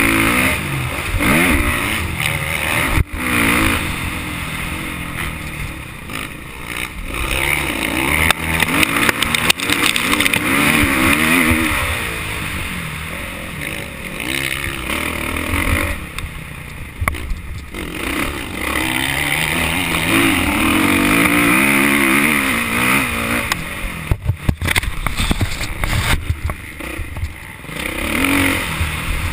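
Motocross motorcycle engine revving up and falling back again and again as the rider accelerates, shifts and backs off, with wind rushing over the microphone. A few sharp knocks cut in, about three seconds in and again near the end.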